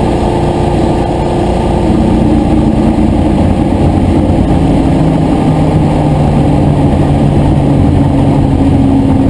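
Historic touring car engines running loud, with the engine note dropping in pitch a couple of times.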